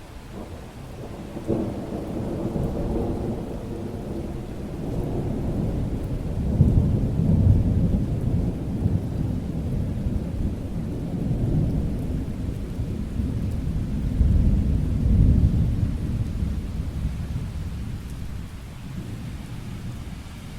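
Long roll of thunder over steady rain: the rumble breaks in after a second or so, swells twice and dies away near the end.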